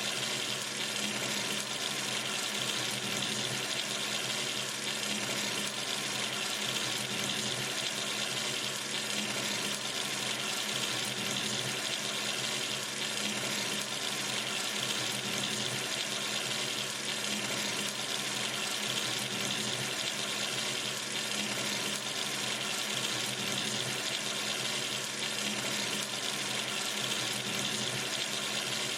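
Water running steadily from a sink tap into the basin, a constant splashing hiss.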